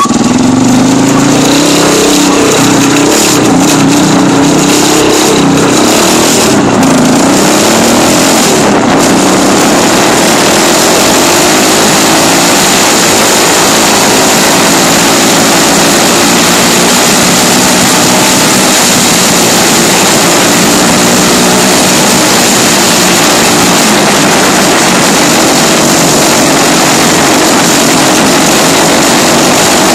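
Dirt bike engine running and revving, its pitch rising and falling with the throttle, under a loud, steady rushing noise.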